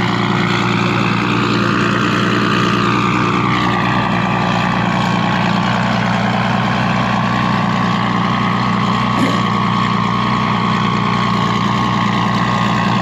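Toyota Supra engine running on E85 on a chassis dyno, holding steady revs with a brief rise and fall in pitch a couple of seconds in.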